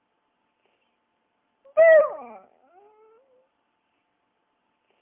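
A single animal cry about two seconds in: one loud pitched call that falls in pitch, followed by a couple of fainter rising calls.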